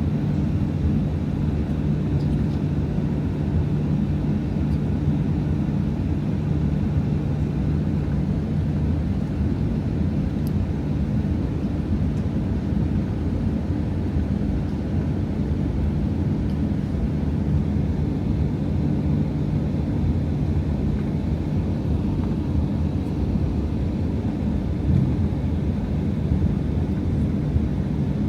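Steady low rumble of an airliner's cabin as the plane taxis, jet engines running at low power.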